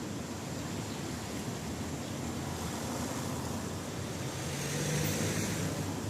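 Steady rain hiss, with the low hum of a motor vehicle engine underneath that swells briefly about five seconds in.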